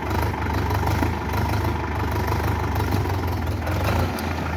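Tractor's diesel engine running steadily, a low drone that dips briefly near the end.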